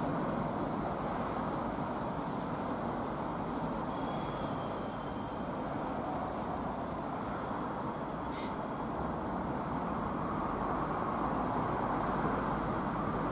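Steady running noise of ScotRail electric multiple units moving slowly over the station pointwork, one pulling away and another approaching. A brief high squeal comes about four seconds in and a short hiss about eight seconds in.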